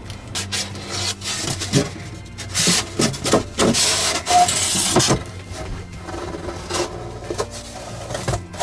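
Rubbing and scraping strokes, loudest and densest in the middle, over steady background music.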